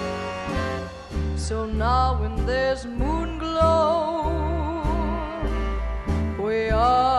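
Live swing band playing an instrumental passage: a horn carries the melody in long notes with vibrato, over a steady series of plucked upright bass notes.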